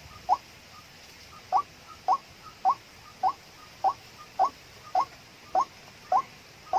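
White-breasted waterhen calling: a rhythmic series of short, upward-sweeping notes repeated about every half second after a brief pause about a second in.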